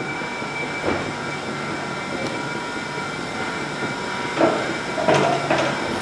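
Heathrow Express electric train standing at an underground platform, its onboard equipment giving a steady hum with a few high steady tones. A few short clicks and knocks come in about four to five and a half seconds in.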